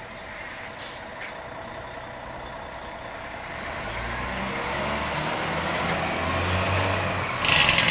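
Fire engine's diesel engine approaching, its low rumble growing steadily louder over the second half, with a faint rising whine above it. A short air-brake hiss comes about a second in, and a louder burst of hissing air near the end.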